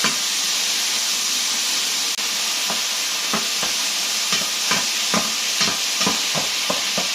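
Chicken pieces sizzling in hot oil in a wok, a steady hiss. From a little under halfway through, a spatula knocks and scrapes against the wok as the meat is stirred, about two strokes a second.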